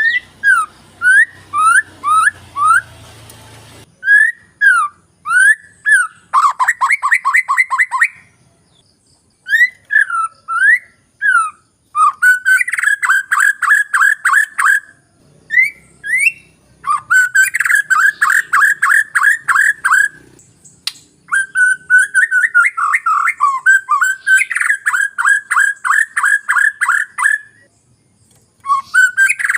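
White-rumped shama (murai batu) singing loud, clear whistled phrases and long runs of rapidly repeated notes, broken by short pauses.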